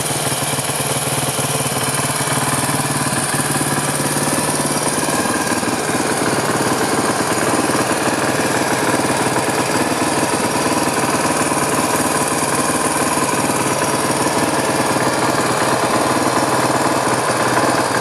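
Suzuki DR350's single-cylinder four-stroke engine running steadily at idle, its note changing slightly about five seconds in.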